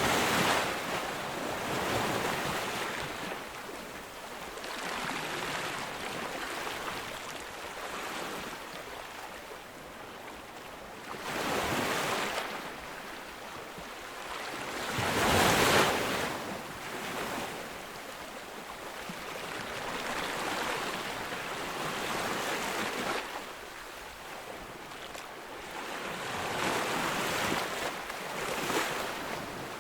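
Ocean waves breaking on a beach, a continuous rush of surf that swells and falls as each wave comes in, the loudest break about halfway through.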